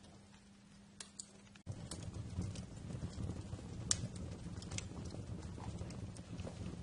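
Wood fire crackling, with irregular sharp pops. About a second and a half in, the sound cuts abruptly to a louder, denser bed of low rumble and small crackles.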